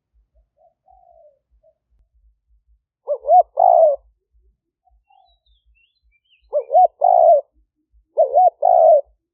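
Decoy spotted dove cooing three times. Each phrase is two short, looping coos followed by a longer coo. The first phrase comes about three seconds in, and the last two come close together near the end.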